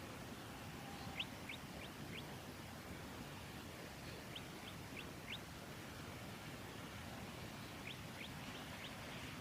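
Golden-headed cisticola calling: short, quick rising notes in three groups of three or four, over a steady hiss.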